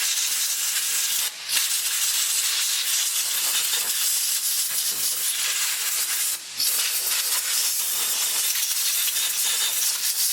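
Air blower blasting a steady, hissing stream of air to clear debris off a mower transmission, cut off briefly twice, about a second in and again about six seconds in.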